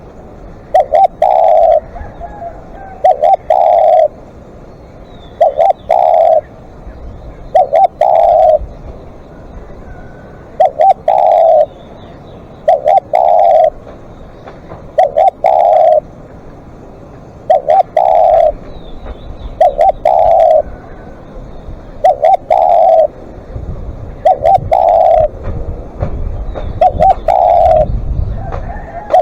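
Spotted dove cooing over and over, a phrase of short notes ending in a longer coo, repeated about every two seconds. A low rumble runs under the calls near the end.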